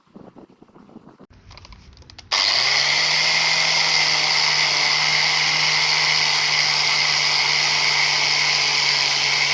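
A handheld power tool switched on about two seconds in and running steadily at constant speed, a loud even whine over a hum. Before it starts there are faint handling sounds.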